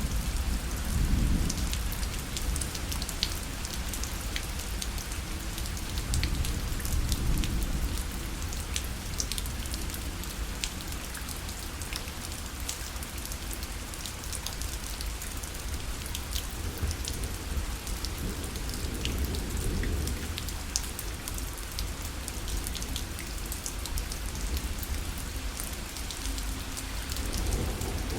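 Steady rain pattering on a parasol, with many separate drops ticking on the fabric over a low rumble that swells a few times.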